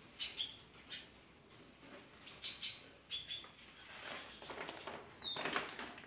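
Small cage birds chirping, with short high calls repeating every half second or so and one call sliding downward about five seconds in. A louder noise comes just after it, near the end.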